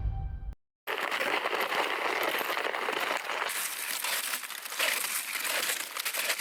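Background music cutting off about half a second in, then a steady crunching and crinkling of snow under snowshoes.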